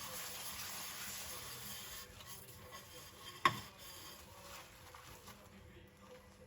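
Faint scrubbing of ceramic plates with a sponge, a soft rubbing hiss, with one sharp clink of crockery about three and a half seconds in.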